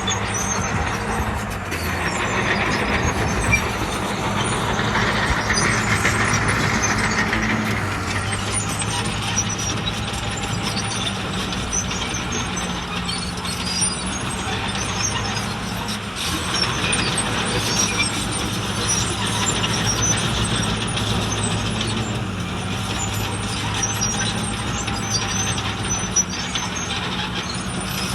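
Diesel engine of heavy earthmoving machinery running steadily, with a low hum. It grows louder and noisier twice for several seconds.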